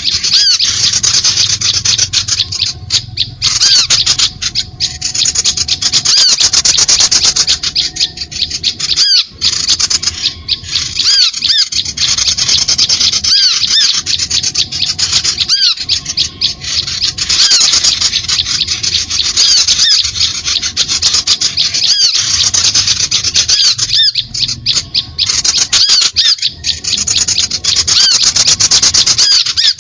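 Bird-lure recording of small birds chattering: dense, rapid, harsh notes mixed with short arched whistles, continuous and loud with only brief breaks.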